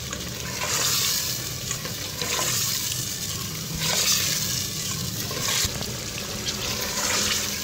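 Chicken pieces sizzling in hot oil and masala in an aluminium pot on a high flame, being browned without water. The sizzle swells in waves about every second and a half as a spatula stirs the pieces, with a few light scrapes against the pot.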